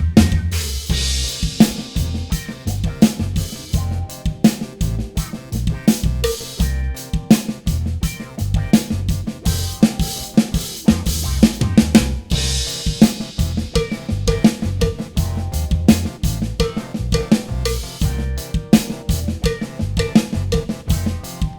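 A drum kit played with kick, snare and cymbals along with a backing music track, captured through a close-miked drum microphone set.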